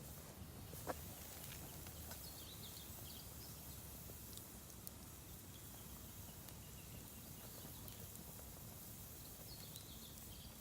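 Campfire of damp firewood burning in a mesh fire stand: a faint steady low rushing with a single sharp crackle about a second in.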